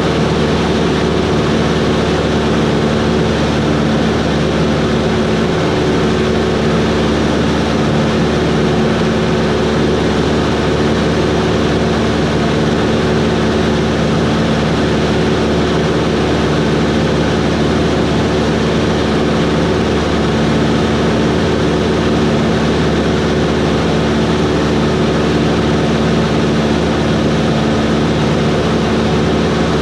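Cessna 140's four-cylinder piston engine and propeller running steadily, a loud, even drone with no change in power.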